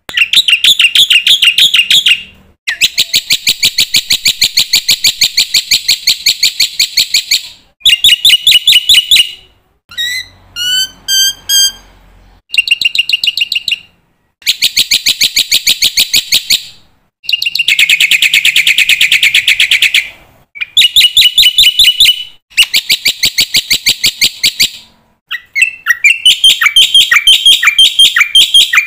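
Black-winged myna (jalak putih) singing vigorously: loud, fast rattling trills in phrases a few seconds long with short pauses between them, and a few clear sliding whistles about a third of the way in.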